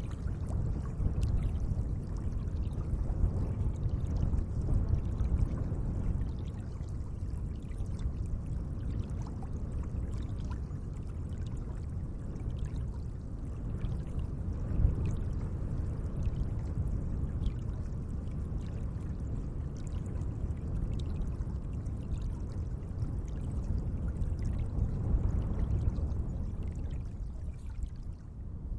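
Lake water moving gently: a continuous low wash that swells and eases, with scattered small splashes and drips.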